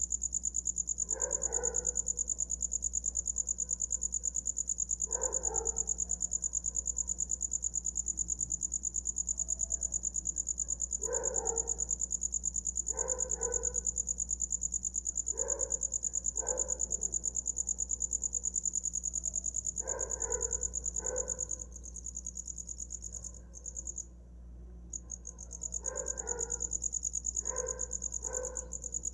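Cricket singing a continuous, rapidly pulsing high-pitched trill, which breaks off for about a second a little after two-thirds of the way through and then resumes. Short, lower calls from another animal sound about a dozen times, singly or in pairs, underneath it.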